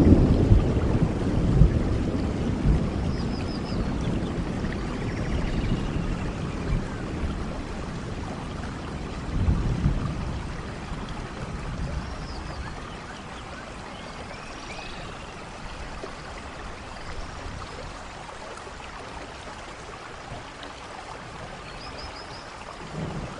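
Steady rainfall, with a low thunder rumble dying away over the first few seconds and another brief rumble about ten seconds in.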